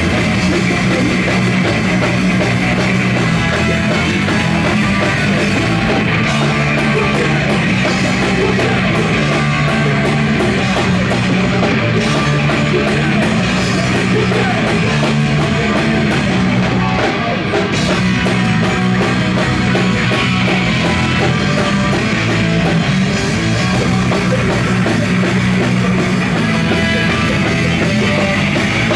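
Punk rock band playing loud and steady, with distorted guitars and a drum kit.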